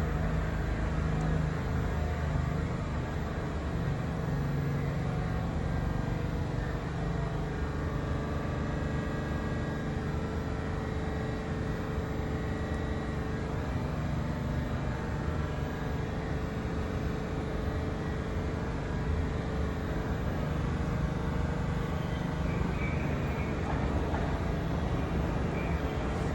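New York City subway train noise in an underground station: a steady rumble with a low electrical hum, holding level without a clear arrival or departure.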